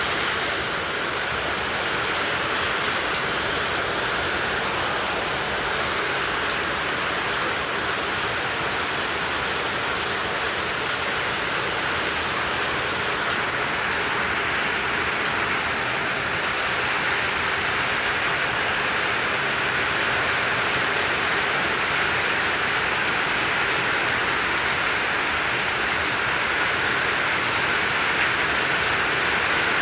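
Heavy tropical rain falling steadily, a dense, even hiss of downpour with no letup.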